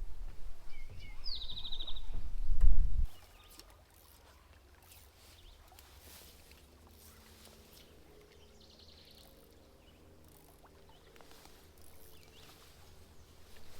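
A loud low rumble on the microphone for about three seconds that stops abruptly, then quiet outdoor ambience. A small bird gives two short, rapid trills, one about a second in and one about nine seconds in.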